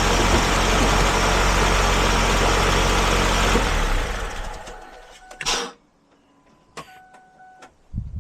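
2006 Ford Focus engine idling steadily on fresh oil with a light tick, which the owner calls 'a little ticky'; about four seconds in it dies away over a second or two. Near the end come a short noise, a few clicks and a brief pair of electronic tones.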